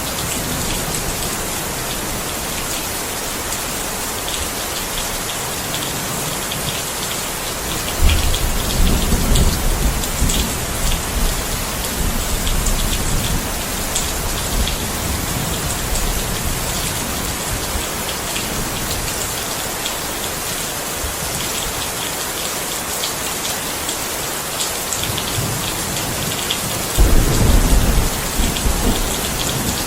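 Steady heavy rain falling, with a patter of individual drops. Thunder rumbles twice, a low roll about eight seconds in and another near the end.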